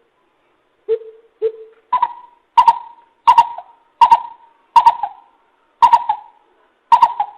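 Coucal calling: a series of hollow hoots. Three lower hoots open the series, then come about six higher, louder double hoots spaced under a second apart.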